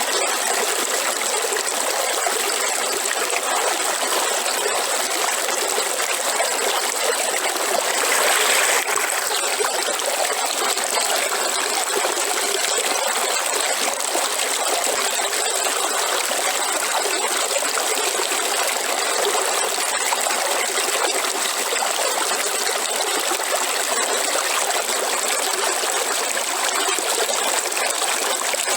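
River water flowing and trickling over rocks, a steady rushing, with a brief louder surge about eight seconds in.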